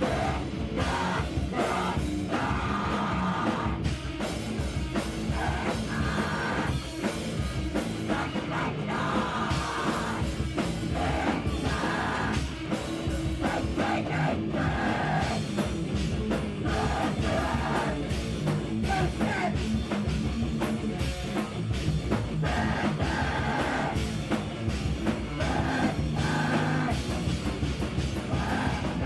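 Live band playing loud, heavy rock music with a drum kit, dense and unbroken.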